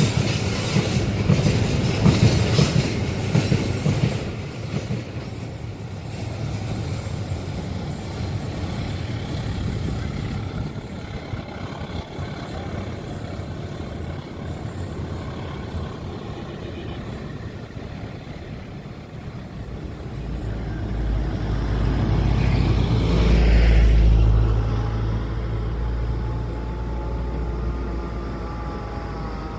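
A train running through a curve, its wheels clattering with a high squeal, loud for the first few seconds and then fading away. About twenty seconds in, a low engine rumble swells to a peak and passes, with a falling whine near the end.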